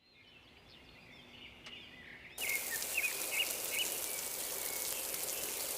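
Outdoor ambience with small birds chirping in short repeated calls. About two and a half seconds in, a steady hiss comes in abruptly and the chirps carry on over it.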